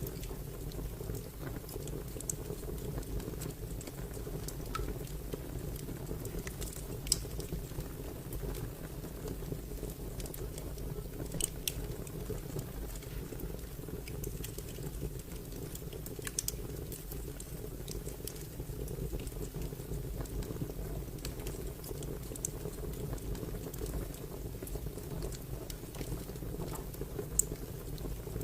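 Crackling fire: a steady low rumble of burning with sharp pops every few seconds.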